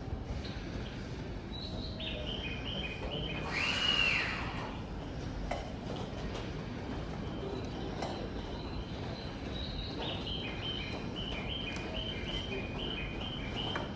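E131 series electric train sounding one short horn blast about four seconds in, a departure warning. High chirping phrases repeat before and after it over a steady background.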